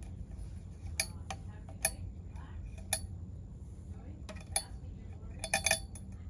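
Irregular sharp metallic clicks and clinks of hand tools on the chainsaw's flywheel and nut. There are single clicks a few times, then a quick cluster of them near the end, over a steady low hum.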